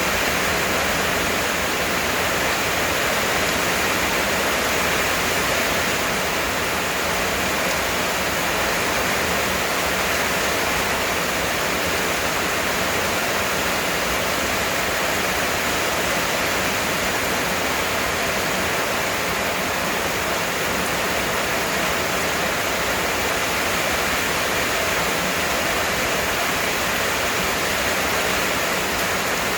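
Heavy rain falling steadily, a dense even hiss with no pauses or distinct drops standing out.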